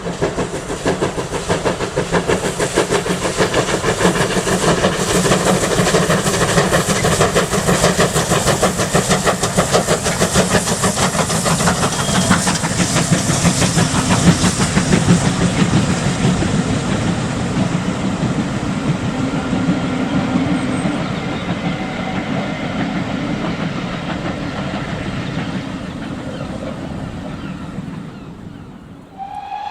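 A steam-hauled train passing: rapid clatter and hiss build to a peak about halfway through, then fade as it moves away. A whistle starts right at the end.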